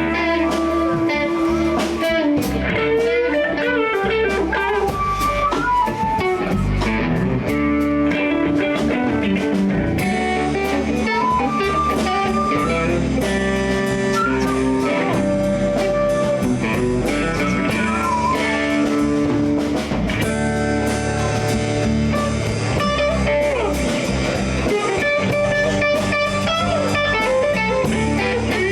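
Live blues band playing an instrumental passage: an electric guitar lead with bent notes over bass and a drum kit.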